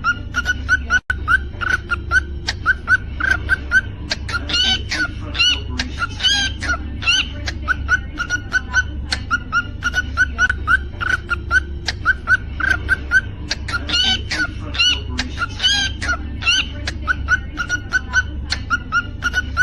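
Cockatiel chirping rapidly, about three short chirps a second, with bouts of rising whistles mixed in, over a steady low hum.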